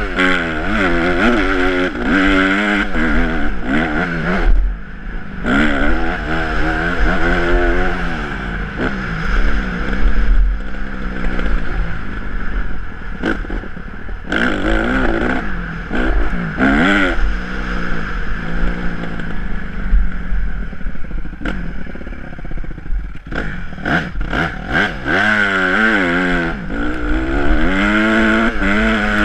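Honda CRF150R's four-stroke single-cylinder motocross engine revving hard and dropping back again and again as it is ridden round a track, with off-throttle lulls between the pulls.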